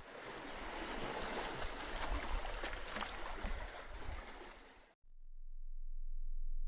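Rushing, splashing water with small scattered splashes, cut off suddenly about five seconds in; soft keyboard music then fades in and grows louder.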